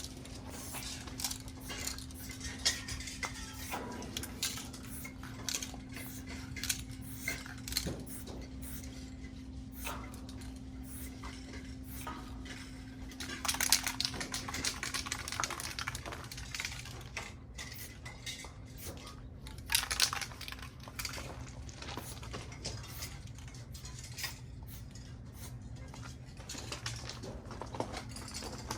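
Aerosol spray paint cans being shaken and handled, the mixing balls clinking and rattling, with two short hisses of spray in the middle. A steady low hum runs underneath.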